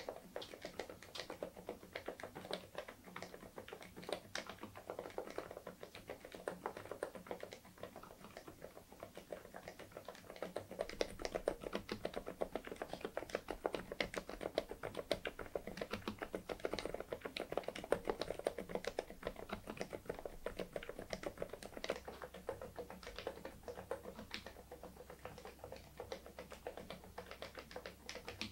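Continuous typing on an InterPixel IPK104 PRO full-size mechanical keyboard with Leobog Cotton Candy silent linear switches: a steady run of soft, muted keystrokes. The typing gets busier and louder for a stretch in the middle.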